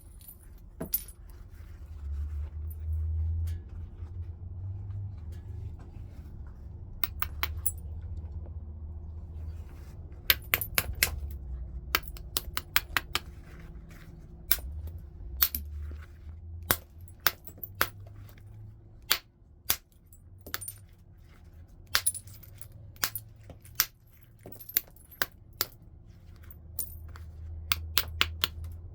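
Flintknapping: hard, glassy clicks and tinks of a knapping tool striking the stone and flakes coming off, irregular and often in quick clusters, over a low rumble of the stone being handled.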